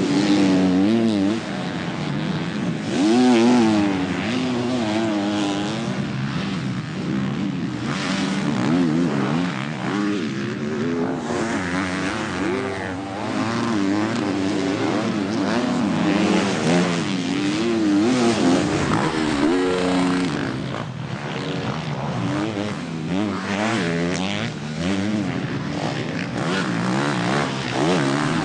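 Motocross bike engines revving hard, their pitch rising and falling over and over as the throttle is worked.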